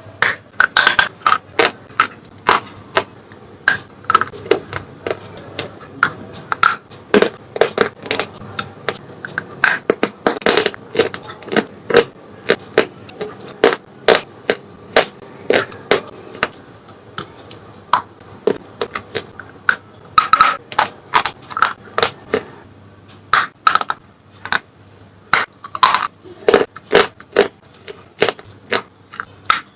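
Slate pencils being bitten and chewed close to the microphone: a steady run of sharp, crisp cracks and crunches, several a second.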